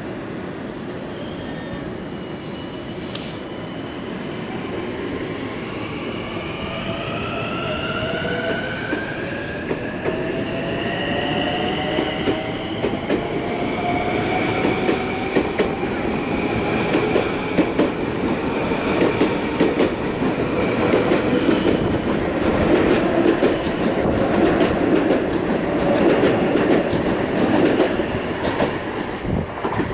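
Kawasaki M9 electric multiple-unit train pulling away and accelerating past, its motors whining in several tones that rise in pitch together as it gathers speed. The rumble grows louder, and in the later part the wheels click rapidly over the rail joints as the cars go by.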